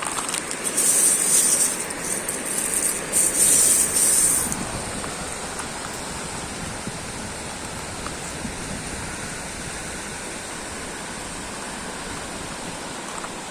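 Steady hiss of rain mixed with the wash of the sea. Two louder hissing swells come in the first four seconds, then the sound settles to an even level.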